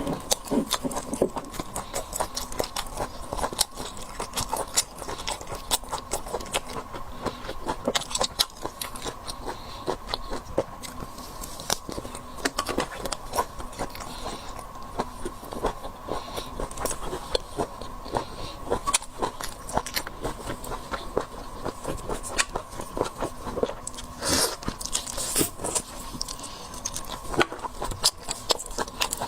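Close-miked mouth sounds of someone eating seafood: continuous biting and chewing with irregular wet clicks, crackles and crunches. A faint steady tone runs underneath.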